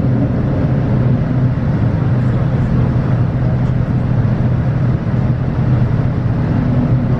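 Steady cabin noise inside a Boeing 787-9: a constant rumble of engines and airflow with a low hum running under it.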